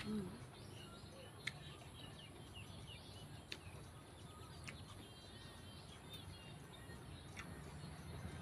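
Faint outdoor background with small birds chirping now and then, and a few faint clicks.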